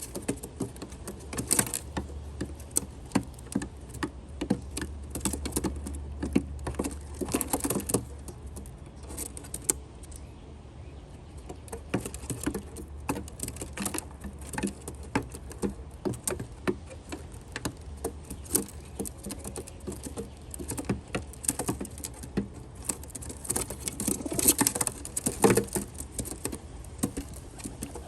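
Rock doves pecking at nuts and seeds on a feeding platform: a rapid, irregular clatter of beak taps and scattered seeds, busier in a few spells.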